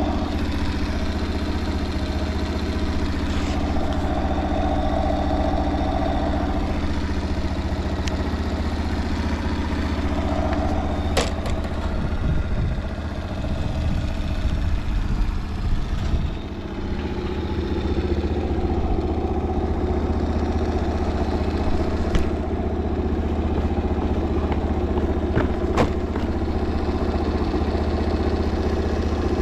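Honda Motra's small single-cylinder engine idling steadily, running quietly with no abnormal noise. A few sharp clicks sound over it.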